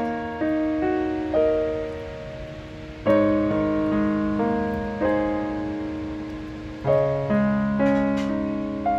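Slow, gentle solo piano music: chords struck every second or two, each ringing on and fading away.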